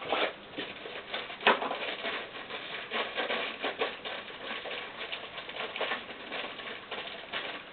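Hands handling a new set of piston rings and their packaging: a busy run of small crinkling, rustling and clicking noises, with a sharper knock near the start and another about a second and a half in.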